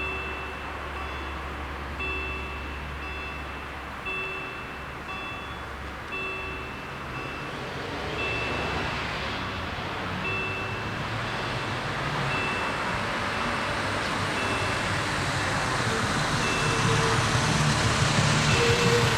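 Level crossing warning bells ringing in a steady, evenly repeating ding pattern, while a rumbling noise swells steadily louder over the second half.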